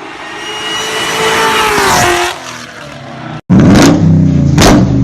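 A car engine runs louder and louder, then its pitch falls as it passes. After an abrupt cut, a loud engine with anti-lag fires two sharp exhaust bangs in the last second or so.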